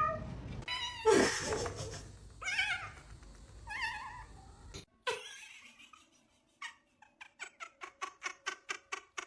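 Domestic cat meowing several times, each call rising and falling in pitch. After a break about halfway through, a quick, even run of short sounds follows, about five a second.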